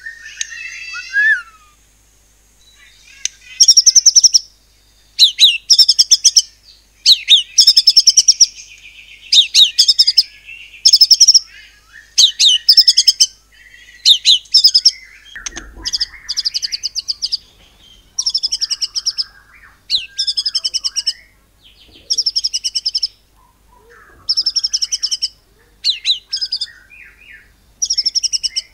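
White-rumped shama (murai batu) singing in rapid-fire fashion: one short phrase at the start, then after a pause a long run of fast, rattling trilled phrases about a second long, repeated one after another. This repeated 'shooting' style is what shama keepers call nembak, here in the cungkok cililin pattern.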